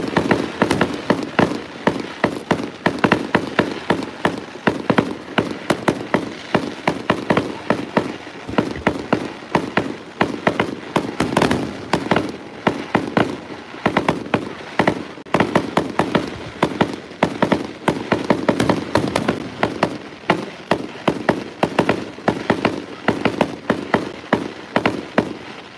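Aerial fireworks display: a dense, continuous barrage of shell bursts and crackling reports, several sharp bangs a second.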